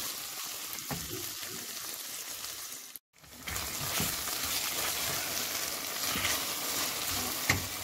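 Chopped onions, green capsicum, carrots and tomatoes sizzling as they fry in oil and tomato paste in a metal pot, stirred with a spatula that scrapes the pot now and then. The sound cuts out for a moment about three seconds in.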